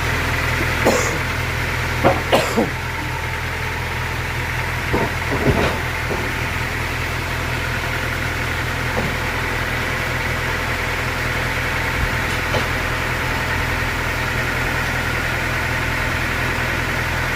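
An engine running steadily at idle, with a few short knocks and clatters in the first six seconds.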